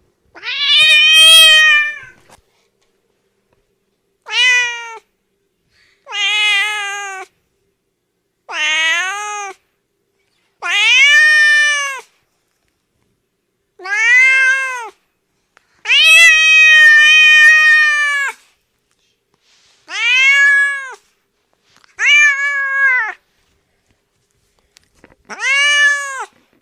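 Cat meowing, about ten separate meows in a row, each rising then falling in pitch, with dead silence between them; one near the middle is drawn out to over two seconds.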